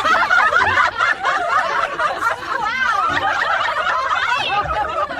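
Several people laughing together after a punchline, many overlapping voices chuckling and snickering at once.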